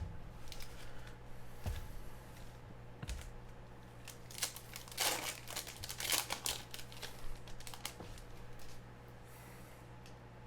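Foil trading-card pack wrappers crinkling and tearing as packs are ripped open and the cards handled, in irregular bursts that are busiest in the middle and thin out near the end. A low steady hum runs underneath.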